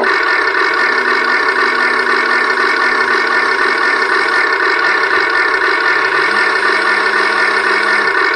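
Simulated engine idling sound from a toy's electronic sound module, a steady synthetic drone through a small speaker. It switches abruptly to a different sound effect at the end.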